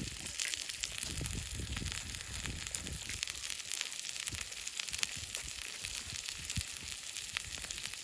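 Food sizzling on a barbecue over the fire: a steady hiss with many small crackling pops. A few low knocks come in the first three seconds.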